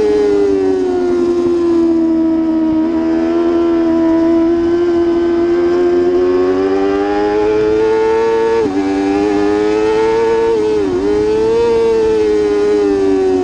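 Racing superbike engine held at high revs, its pitch drifting slowly up and down, with a sudden break about nine seconds in and a short dip in pitch near eleven seconds.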